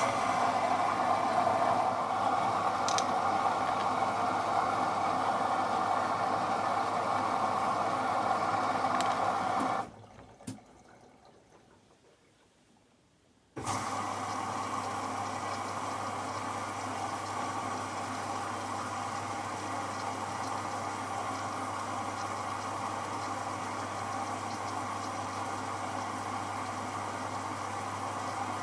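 AEG Lavamat L74810 washing machine taking in water: a steady rush of water through the inlet valve for about ten seconds, which cuts off suddenly. After a few seconds of near quiet and a single click, a steadier, quieter running sound with a low hum starts.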